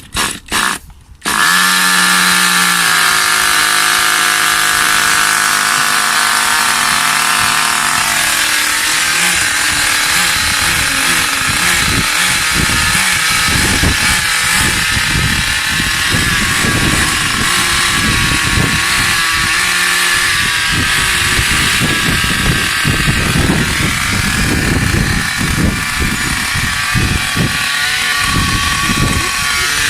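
Small nitro glow engine of an RC car, a Thunder Tiger 15 Pro, starting up cold with the throttle slightly open. A few quick pulls turn it over, and it catches about a second in. It then runs loud and steady with a high buzz, and from about eight seconds on it runs rougher and more uneven.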